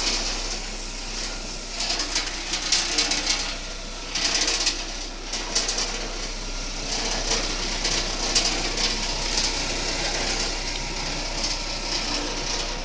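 Russian car's engine running with a high whistle and scraping that swells and fades unevenly, a whistle the owner suspects comes from the timing belt or the alternator belt.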